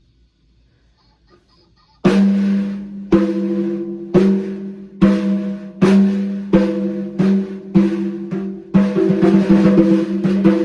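Toy voice-repeating toucan switched on, playing a loud demo tune: drum hits about once a second over a sustained low note with higher notes above, starting about two seconds in.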